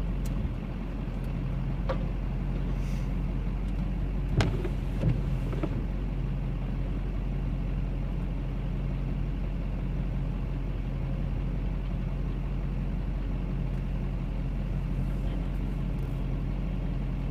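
Cat 325C hydraulic excavator's diesel engine running steadily, with a few sharp knocks and cracks between about two and six seconds in as it works slash.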